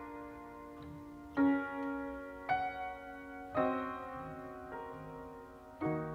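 Background music: slow piano chords, each struck and left to ring, about four in all.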